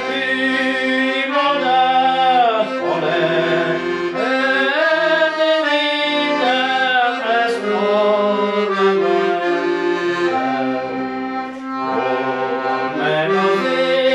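Accordion playing a Hungarian folk tune, with held chord notes underneath and a melody that slides between notes.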